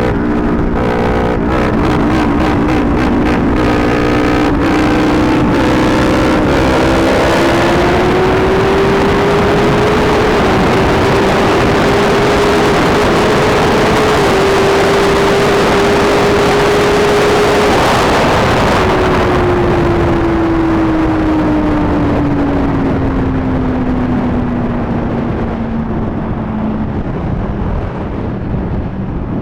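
Suzuki GSX-R1000's inline-four engine under way. Its pitch climbs over the first several seconds, holds steady at speed, then slowly falls as the bike eases off. Heavy wind rush on the microphone runs underneath.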